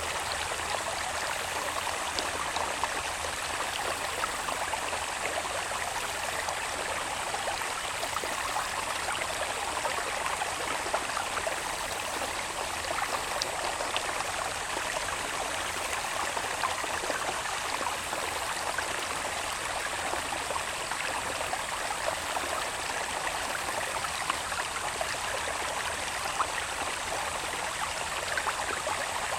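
Water babbling steadily along a small irrigation channel running down from the hills into rice fields, with many small splashes and trickles. A thin, steady, high-pitched insect drone runs underneath it.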